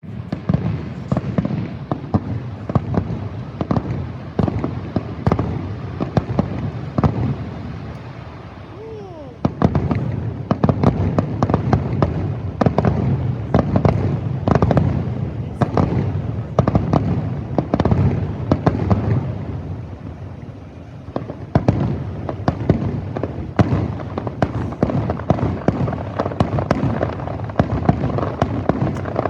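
Fireworks display: shells bursting in quick, dense bangs with crackling between them. One whistling glide sounds during a short lull about eight to nine seconds in, after which the bursts come thicker again.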